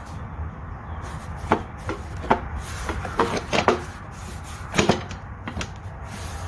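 Irregular sharp knocks and clicks, about eight of them, most between one and five seconds in, over a low steady hum.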